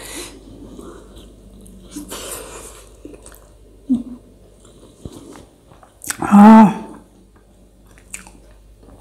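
Close-miked chewing, biting and wet mouth sounds of a person eating rice and pork by hand, with small clicks throughout. A short, loud vocal sound comes about six seconds in.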